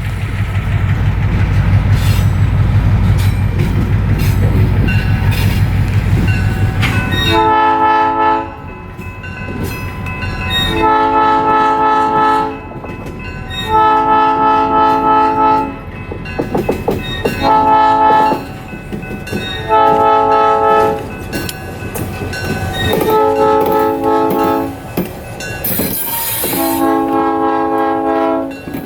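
An EMD SW1200 diesel switcher running loudly close by with a deep engine rumble, then about seven blasts of its old cast Nathan P3 chime horn, each about one to two seconds long, spaced a couple of seconds apart. A short hiss of air comes between the last blasts.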